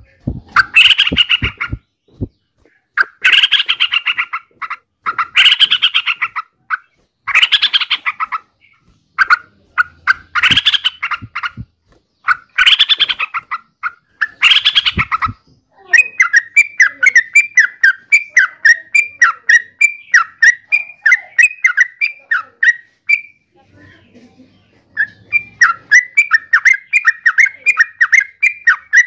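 Yellow-vented bulbul singing. Loud, bubbly phrases about a second long repeat every couple of seconds. About halfway in, the song gives way to a fast, steady run of short repeated notes, which breaks off briefly near the end and starts again.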